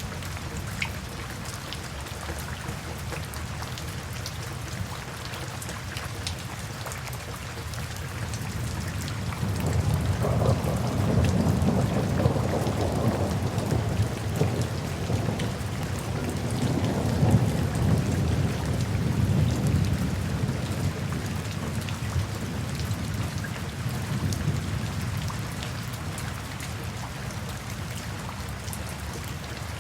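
Steady rain with distinct drops ticking on a surface. A long low rumble of thunder rolls in about a third of the way through, swells twice and fades out well before the end.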